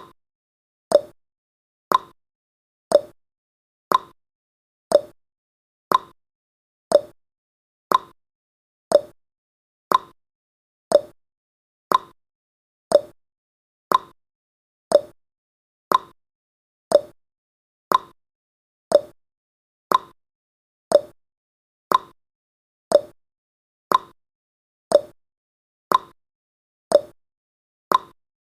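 Clock-tick sound effect of a countdown timer, one sharp tick every second, alternating between a higher and a lower tick like a tick-tock.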